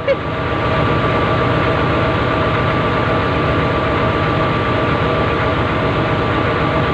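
Excavator's diesel engine running steadily, with a steady high whine held over the low rumble.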